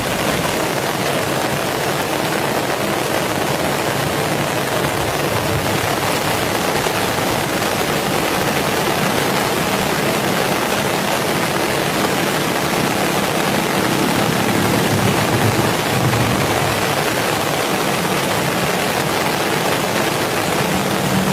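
Heavy rain falling steadily, a dense even hiss, with a low rumble swelling at times.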